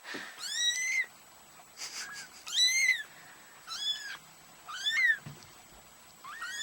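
Two-week-old kittens mewing: about six short, high, thin cries, roughly one a second, each rising and then falling in pitch.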